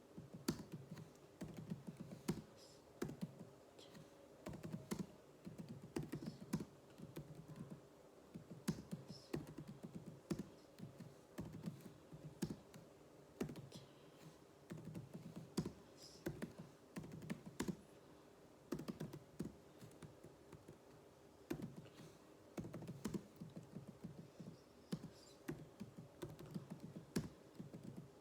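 Computer keyboard being typed on in a practice drill: quick, irregular runs of key clicks with short pauses, over a faint steady hum.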